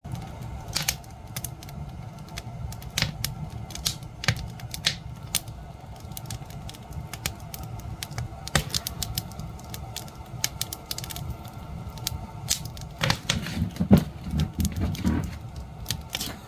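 Campfire burning: irregular sharp crackles and pops of the wood over a steady low rumble of the flames. About 13 seconds in the low rumble grows louder and busier for a couple of seconds.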